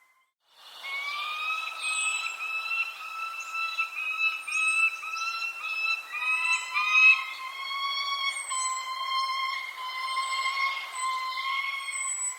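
Birdsong: a run of short, repeated pitched notes, about three a second, that turns into a long steady call about halfway through, with thin high falling chirps above. The sound cuts out briefly at the very start.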